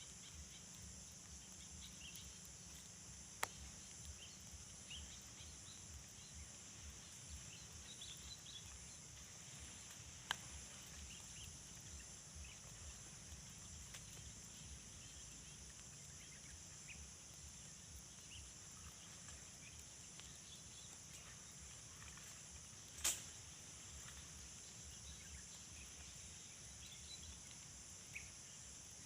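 Faint tropical forest ambience: a steady high-pitched insect drone with scattered short bird chirps over a low rumble. Three sharp clicks break in, the loudest about two-thirds of the way through.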